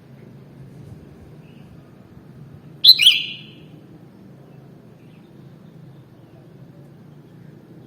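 Sooty-headed bulbul giving one short, loud, clear call about three seconds in, over a faint steady low hum.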